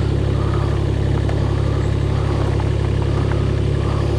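An engine running steadily at idle with an even low throb and a few faint ticks. Its note drops at the very end.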